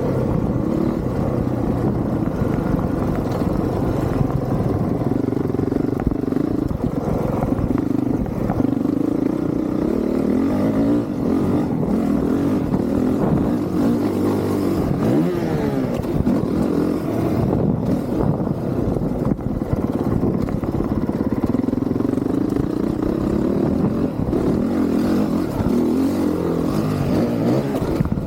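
Honda CRF450R's single-cylinder four-stroke engine ridden hard on a motocross track, its pitch rising and falling again and again as the throttle opens and closes through the gears.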